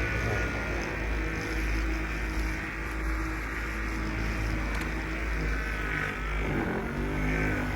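Handheld electric polisher running steadily as it buffs cutting compound into a plastic headlight lens, its pitch dipping and recovering about six seconds in.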